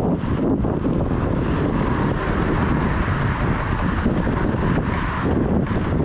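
Steady wind rushing over the microphone of a camera riding on a moving bicycle.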